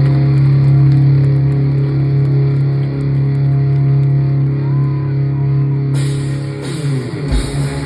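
Hard rock band playing live with no vocals: a low distorted guitar chord held for about six seconds. Then cymbals and drums come in, with kick-drum hits near the end.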